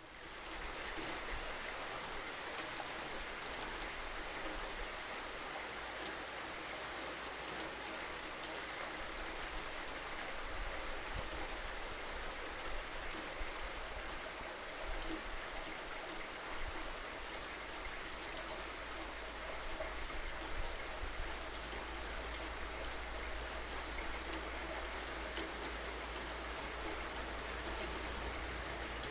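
Steady rain falling, fading in at the very start, with a low steady rumble underneath.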